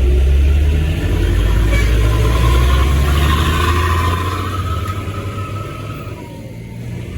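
A motor vehicle's engine running close by, strong and low, then fading away about five seconds in, with a faint whine over it.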